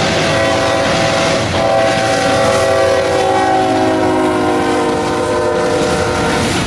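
Freight locomotive's multi-note air horn sounding one long blast over the rumble of the passing train, its chord dropping slightly in pitch near the end before cutting off.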